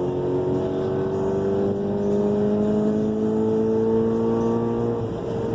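Car engine pulling under load, its pitch climbing slowly and steadily as the revs build. About five seconds in, the revs dip.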